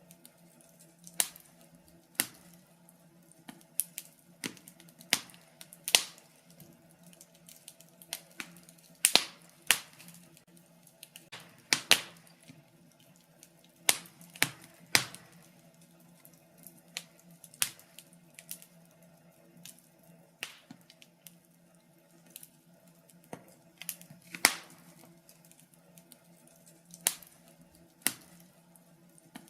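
Wood fire in a fireplace crackling: irregular sharp pops and snaps, some much louder than others, from about one a second to several a second.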